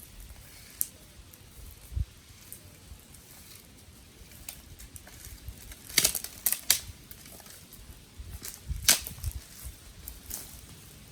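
Dry sticks and twigs cracking and snapping: scattered sharp cracks, a quick cluster about six seconds in and a loud single crack near nine seconds.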